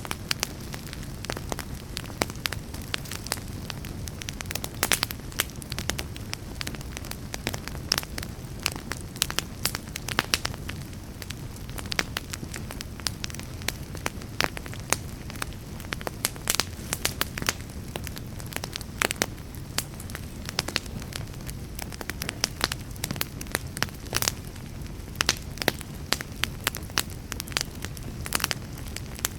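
Fireplace fire crackling: many irregular sharp snaps and pops over a steady low rumble of flames.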